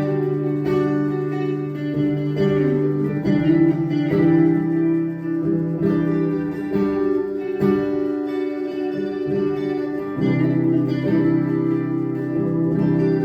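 Guitar strummed in sustained chords that ring on and change every second or so.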